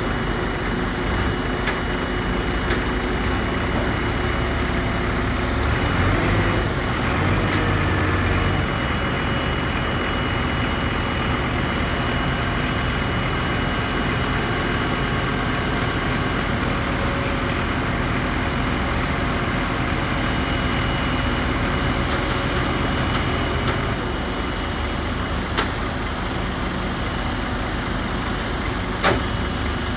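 Scania P270 truck's diesel engine idling steadily. The low drone swells briefly around six to eight seconds in, and there is a sharp click near the end.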